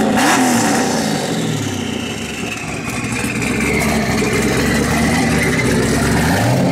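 Twin-turbocharged Chevrolet Camaro SS V8, tuned to over 700 hp, idling after start-up. A rev falls away in the first second or so, and the engine blips up again near the end.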